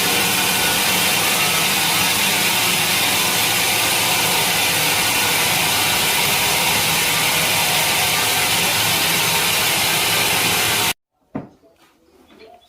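Sawmill saw machinery running with a loud, steady hiss-like noise that cuts off abruptly near the end, followed by a few short knocks.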